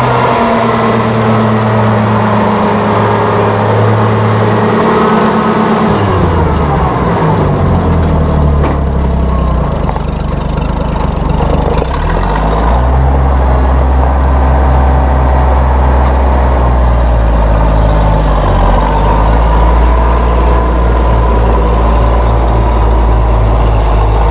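1966 Oliver 1650 tractor's gas six-cylinder Waukesha engine running steadily. About six seconds in its speed drops, and it settles into a slower, steady run for the rest of the time.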